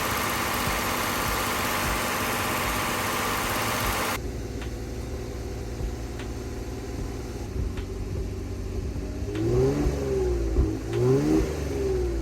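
Aerosol intake cleaner hissing as it is sprayed into the intake manifold of a 3.3 L twin-turbo V6 held at a fast idle of about 2,000 RPM. The hiss cuts off about four seconds in, leaving the engine running. Near the end the engine speed swings up and down twice.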